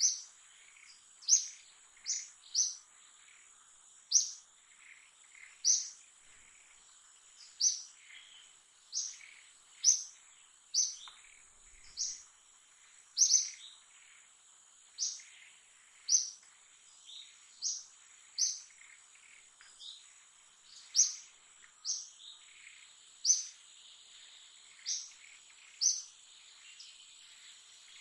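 A bird's short, sharp, high chirps, repeated about once every second or so, over a steady high-pitched whine.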